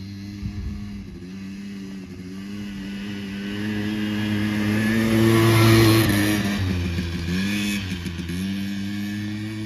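The two-stroke 100cc engine of a Quadzilla Stinger 100 quad bike running at a steady note. It grows louder to a peak about six seconds in, then fades. The revs dip briefly and pick up again near eight seconds.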